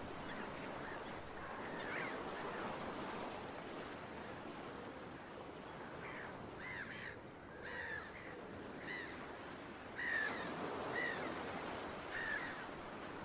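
Birds giving short, repeated chirping calls over a steady outdoor background hiss, the calls growing more frequent in the second half.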